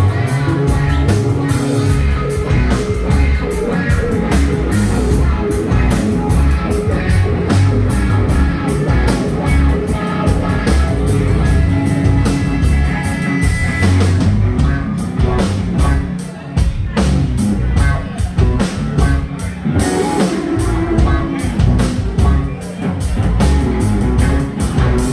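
Live blues band playing an instrumental passage of the song with a drum kit and guitar, with no vocals.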